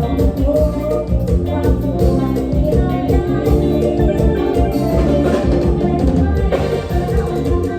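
Live band playing Isan toei (mor lam style) dance music, with a steady drum-kit beat under sustained melodic instruments.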